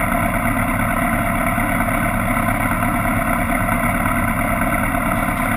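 Vehicle engine running steadily at constant speed, with no revving up or down.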